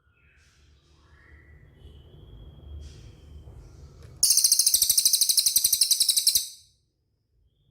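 Cililin songbird giving a loud, very high, rapid trill lasting about two seconds, starting about four seconds in; before it there are faint scattered chirps over a low rumble.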